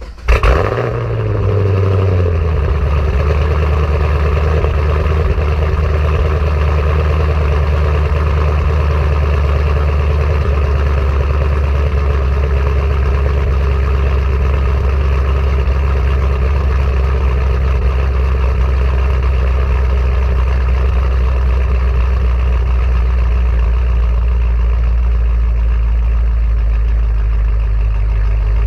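Chevrolet Camaro SS's LS3 V8 catching and flaring briefly, then settling into a steady idle through Kooks long-tube headers and a Borla ATAK cat-back exhaust. The idle drops slightly about two seconds in and then holds even.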